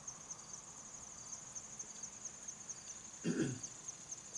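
Crickets chirping steadily in a fast, high-pitched rhythm. A short, louder human vocal sound breaks in about three seconds in.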